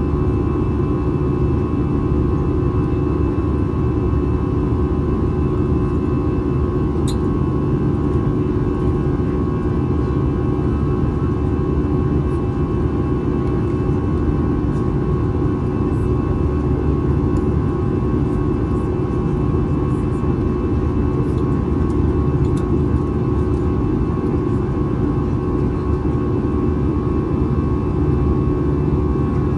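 Steady cabin noise of an Airbus A320 in its climb, heard from inside the cabin: the CFM56-5B engines running at climb power under a constant rush of airflow, with a steady droning hum.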